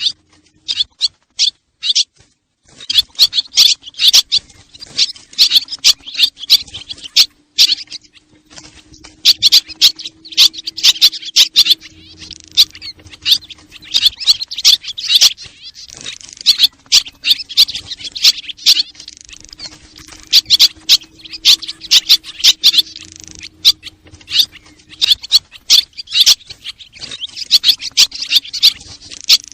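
Swallows twittering: dense, rapid high chirps in bursts of a few seconds with short pauses between, over a faint steady hum.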